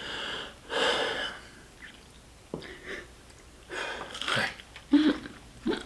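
A person breathing heavily with long, noisy exhales like sighs, mixed with chewing sounds and a few short low grunts.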